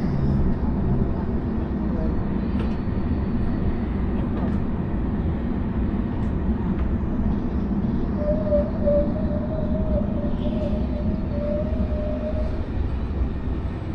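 Double-decker electric passenger train heard from inside the carriage: a steady low rumble of the train running on the rails, with a thin whine that comes in about eight seconds in and lasts about four seconds.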